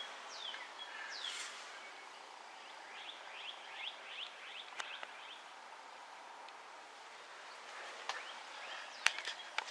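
Outdoor ambience with birds chirping: a few short falling calls in the first second or so and a quick run of chirps a few seconds in, over a faint steady background. A few sharp clicks near the end.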